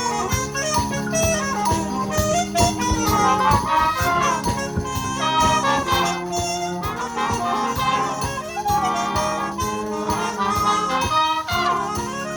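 Youth wind band playing a piece: brass and woodwinds sounding held chords over a steady beat.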